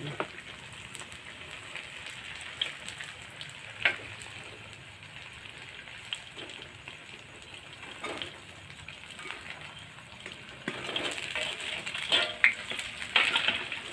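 Tempeh frying in hot oil in a wok, a steady sizzle with occasional taps and scrapes of a metal spatula against the wok. The sizzle and spatula clatter get louder and busier near the end as the pieces are turned.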